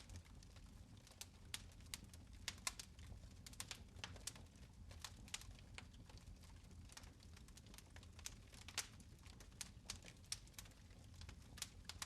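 Fire in a fireplace crackling: irregular sharp pops and snaps, several a second, over a soft low rumble.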